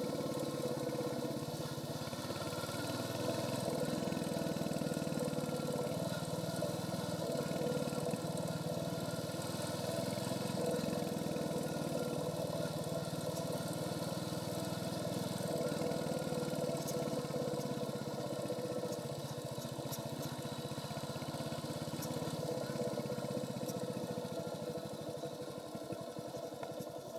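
Royal Enfield Hunter 350's 349 cc single-cylinder engine running steadily through its stock exhaust while the motorcycle is ridden along, the level swelling and easing only slightly.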